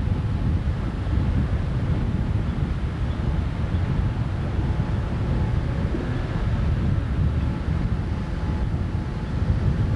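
An inflatable boat's outboard motor running steadily under way, with wind buffeting the microphone.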